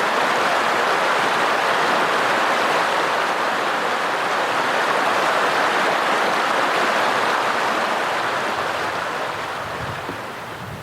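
Steady rushing of a mountain stream's flowing water, fading somewhat near the end.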